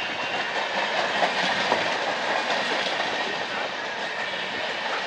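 Railway train running on the track, its wheels clattering steadily over the rails.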